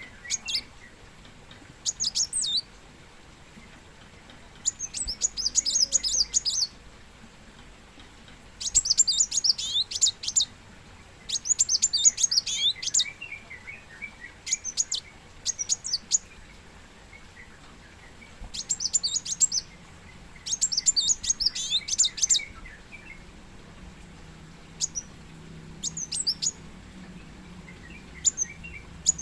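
Sunbird (kolibri wulung) singing: repeated bursts of rapid, high, thin twittering notes, each a second or so long, with short pauses between.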